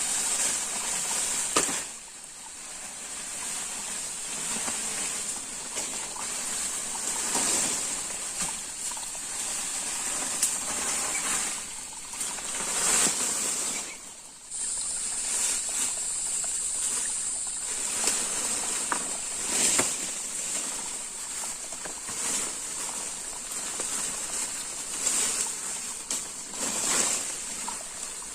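Water sloshing and splashing, over a steady high hiss. The sound drops away sharply twice, about two seconds in and about halfway through.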